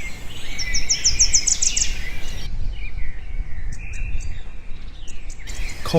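Birds chirping over steady low background noise, with a quick run of about nine high chirps near the start.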